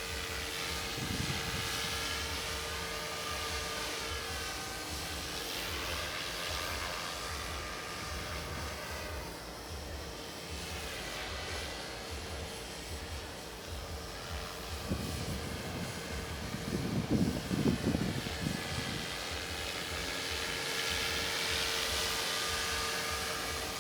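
Radio-controlled model airplane flying past, its motor whine rising and falling in pitch as it makes two passes. A steady hum runs underneath, and there is a rumble of wind on the microphone between the two passes.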